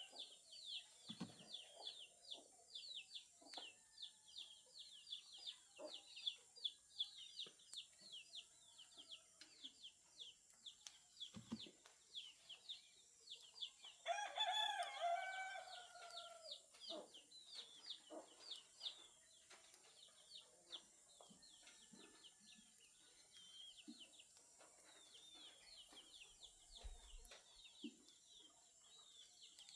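Rooster crowing once, about halfway through, over a continuous run of quick, high, repeated chirps from small birds. Faint and distant throughout.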